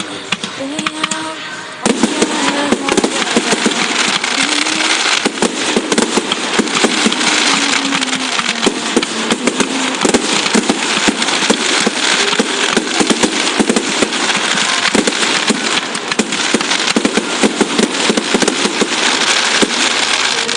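Fireworks display: a dense, rapid barrage of crackling bangs that starts suddenly about two seconds in and keeps on without a break.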